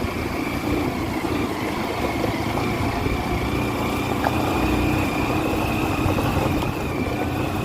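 Motorcycle running steadily along a rough, broken dirt road, engine and road noise continuous without a break.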